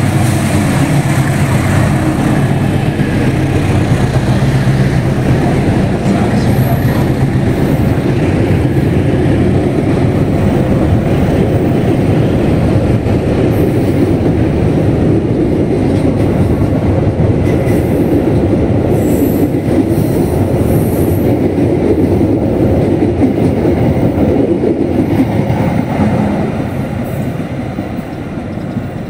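Train running past, a loud steady rumble of wheels on the track that fades away in the last few seconds.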